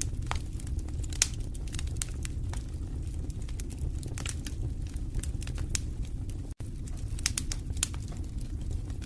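Wood fire crackling in a fireplace: a steady low rumble of burning with frequent sharp pops and snaps, thickest about seven to eight seconds in. The sound cuts out for an instant about two-thirds of the way through.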